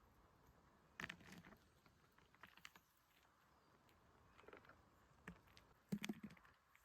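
Faint, scattered clicks and crackles, with a short cluster about a second in and a louder one near the end.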